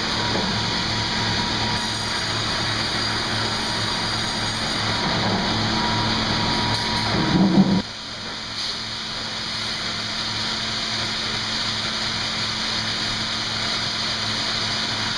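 Sawmill machinery running steadily with a low pulsing hum. A louder surge comes about halfway through and cuts off suddenly, and the machinery runs on quieter in the low end after it.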